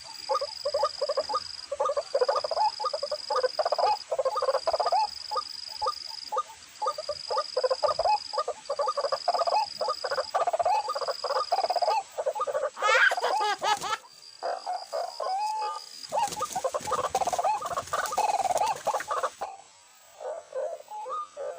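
White-breasted waterhen calling, a fast run of repeated croaking calls that eases off near the end. A high, steady insect buzz comes and goes in stretches of about a second and a half and stops about halfway through.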